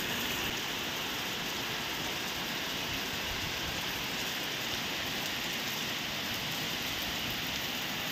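Steady heavy rain falling and splashing on a wet concrete terrace.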